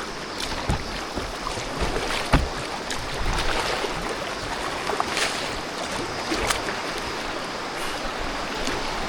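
Kayak on a moving river: a steady rush of running water with scattered short splashes and knocks.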